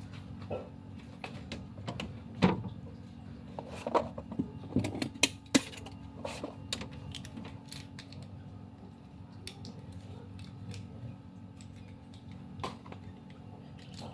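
Metal parts and hand tools being handled on a workbench: scattered sharp clicks and knocks, busiest in the first half, over a steady low hum.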